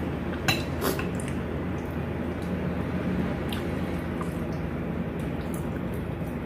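Eating utensils clinking on a plate: two sharp clinks about half a second and just under a second in, then a few lighter clicks, over a steady low background hum.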